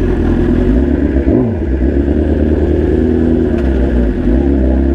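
BMW S1000RR inline-four engine running at low revs as the bike rolls slowly, its note rising and falling briefly about a second and a half in.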